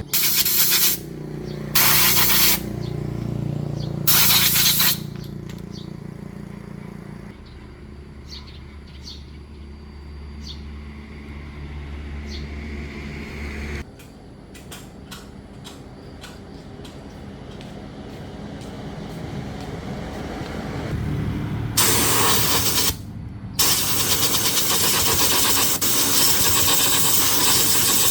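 Three short blasts of hissing air in quick succession, then a long loud hiss near the end, broken once by a brief pause, over a low hum.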